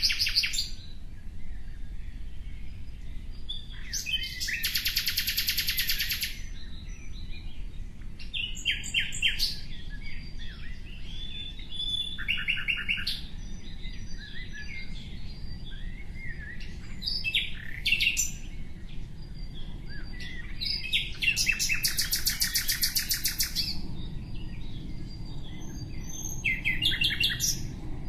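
A songbird singing in short phrases every few seconds, the longest two being fast, rattling trills about two seconds long.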